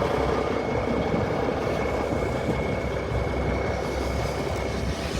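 Heavy vehicle engine running steadily, with a faint high whine held throughout.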